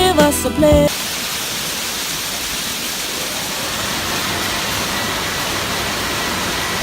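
Steady hissing rush of water spraying, as from a hose rinsing a car. It follows a snatch of sung music that cuts off abruptly about a second in.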